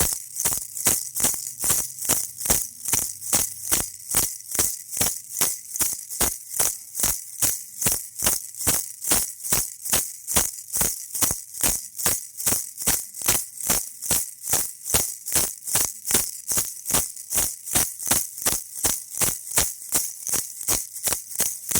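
Baby rattle shaken in a steady, even rhythm, about three shakes a second. Each shake is a short, bright rattle of beads.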